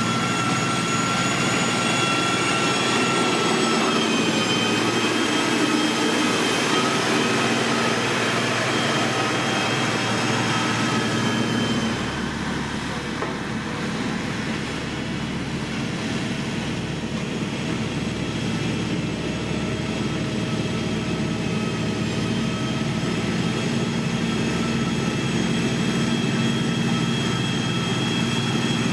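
Heavy road-construction machinery running steadily, diesel engines with a held whine over them; about twelve seconds in the sound shifts to a deeper rumble.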